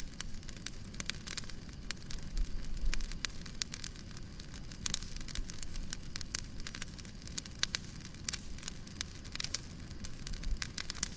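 Wood fire crackling in a fireplace: irregular sharp pops and snaps over a low rumble of burning.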